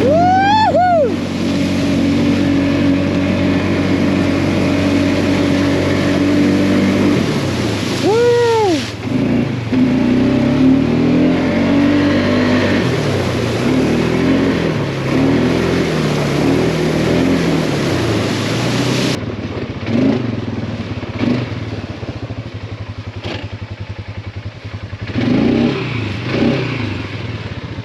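570 cc ATV quad bike engine running steadily, then revving up and down in several rises and falls as it is ridden. Later it settles to a quieter, fast even putter at low revs.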